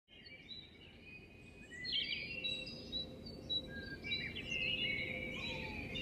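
Several small birds chirping and singing in quick overlapping phrases over a steady low background rumble, the birdsong growing louder about two seconds in.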